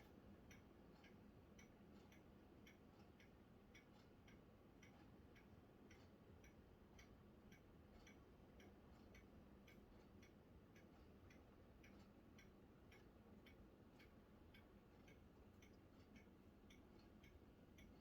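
Near silence with faint, regular ticking, about two to three ticks a second, over a low steady hum.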